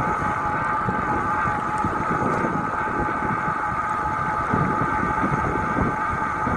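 Onboard ride noise from a moving bike: a steady high hum at an unchanging pitch, with wind rumbling on the microphone.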